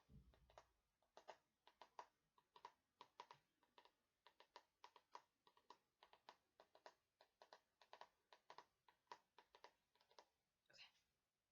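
Fingernails tapping on a book, quick soft taps in uneven little clusters, about three or four a second.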